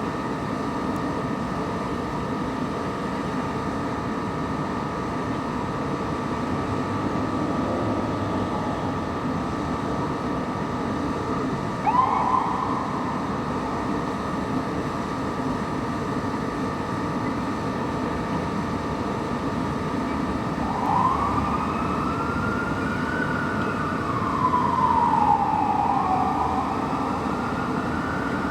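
Fire engine's electronic siren gives one short rising chirp, then about two-thirds of the way through starts a slow wail that rises and falls twice. Under it is the steady running of the truck's engine and traffic.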